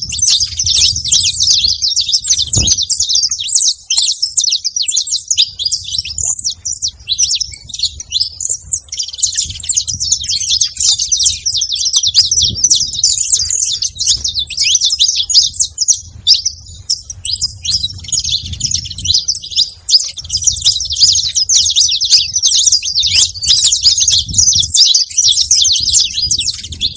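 A flock of saffron finches chattering, many birds chirping over one another in a dense, unbroken din, with a faint low rumble underneath.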